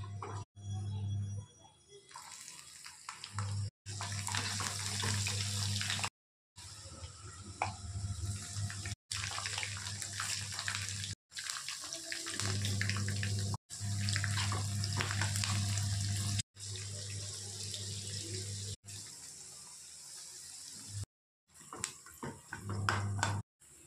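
Hot oil sizzling and crackling as peanuts, garlic, chana dal, green chillies and curry leaves fry in a non-stick pan, stirred with a steel spatula. A steady low hum runs underneath, and the sound breaks off for a moment many times.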